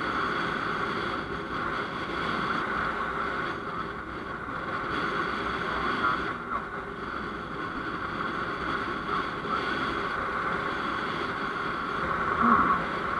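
Steady road and engine noise of a moving vehicle, an even rushing sound with no clear changes, and a brief louder moment near the end.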